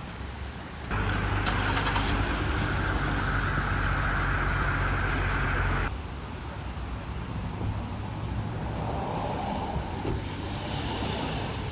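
Motor vehicle engine running in street traffic, a steady low hum with a steady whine above it, changing abruptly about a second in and again near six seconds to quieter traffic noise.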